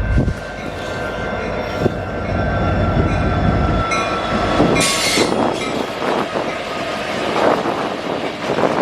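Canadian National freight train rolling past with a steady rail noise of wheels on track and thin squeals from the wheels. A heavy low rumble drops away about four seconds in, and a sharp, brief squeal follows about a second later.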